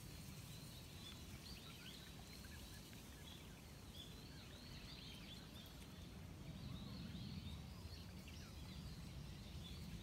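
Many small birds chirping and twittering faintly in short, high calls throughout, over a low steady rumble.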